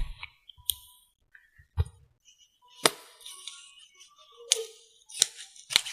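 Sharp plastic clicks and taps, about seven at irregular intervals, from a mascara tube being picked up and handled close to the microphone.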